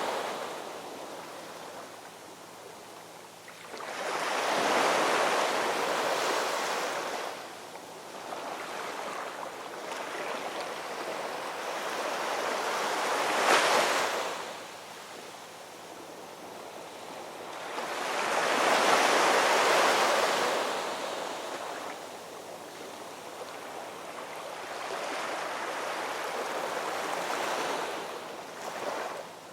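Ocean surf breaking and washing on a shore: four swells of surf noise rise and fall about seven seconds apart, with one sharper crash near the middle.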